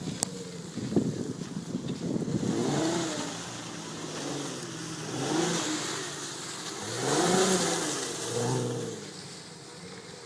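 Volkswagen 4Motion car's engine revving up and dropping back several times, with a sharp click just after the start and a knock about a second in.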